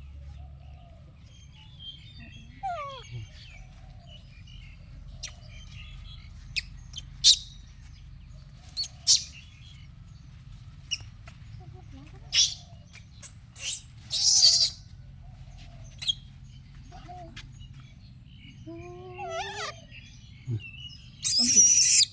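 Scattered animal chirps and short high squeaks: a falling chirp about three seconds in, a rising call near the end, and several sharp squeaky bursts, the loudest pair at the very end.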